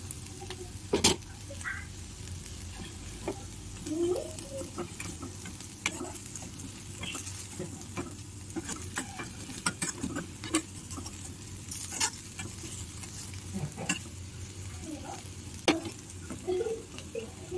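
Sliced potatoes sizzling as they fry in a metal kadai, with a spatula stirring and scraping them against the pan in irregular clicks and scrapes. The loudest knocks come about a second in, at about twelve seconds and near sixteen seconds.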